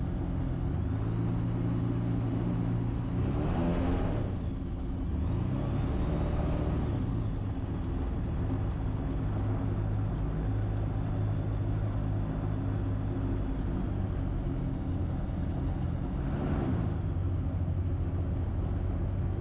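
Ikarus C42 light aircraft's engine and propeller running at low taxi power, a steady drone whose pitch swells and falls back briefly about three to four seconds in, again around six seconds, and once more near sixteen seconds, as the throttle is worked while taxiing.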